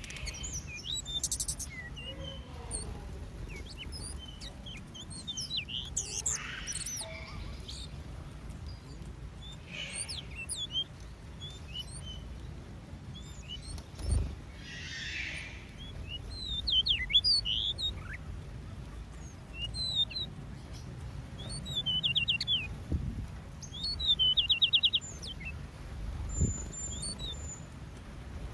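Many small songbirds in an aviary chirping, with short overlapping calls and a few rapid trills. There is a single low thump about halfway through, over a steady low background rumble.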